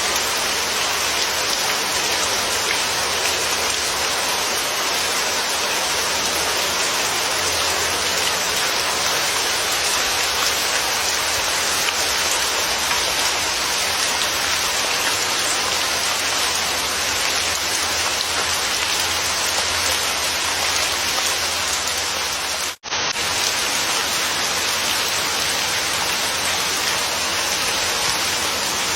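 Steady, dense rainfall with an even hiss of drops. It cuts out for an instant about three-quarters of the way through, then carries on unchanged.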